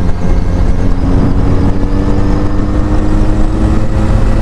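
Benelli Leoncino 500's parallel-twin engine running under way through an aftermarket exhaust with a replaced mid pipe, its pitch climbing slowly as the bike pulls.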